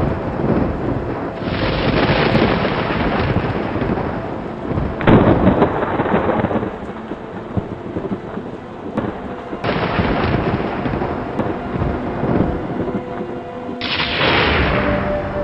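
Thunderstorm: rolling thunder over steady rain, with several sudden swells of rumble and the loudest crack about five seconds in.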